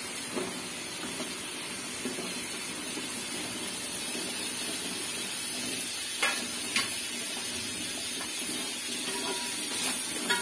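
Onions, ginger-garlic paste and freshly added chopped tomatoes sizzling in oil in an aluminium pot, a steady frying hiss. Two short metallic clicks come about six seconds in, and a ladle stirs against the pot near the end.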